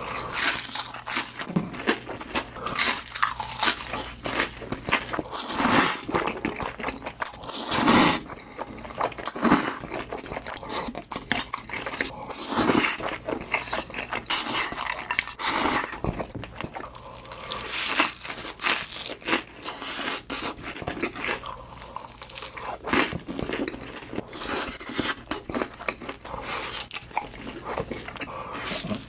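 Crisp food being bitten and chewed close to the microphone: a continuous run of irregular crunches, some much louder than others.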